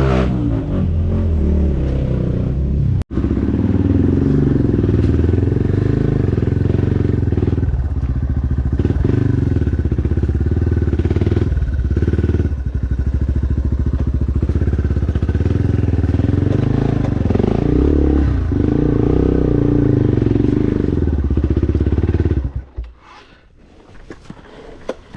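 Dirt bike engine running under load off-road, its revs rising and falling with some clatter. It cuts out for an instant about three seconds in. Near the end it drops away abruptly, leaving only faint sound.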